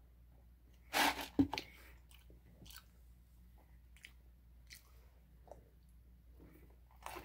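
Close-up eating sounds: a short loud drinking noise from a cup with a knock about a second in, then soft chewing with faint wet mouth clicks.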